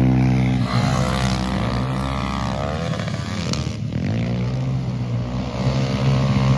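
A vehicle engine running steadily. Its pitch falls away and weakens around the middle, then picks up again, as with a gear change.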